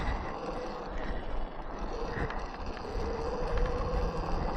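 Electric dirt bike riding through mud, its rear tyre churning and throwing mud: a steady rough rumble of tyres and wind, with a faint electric motor whine past the middle.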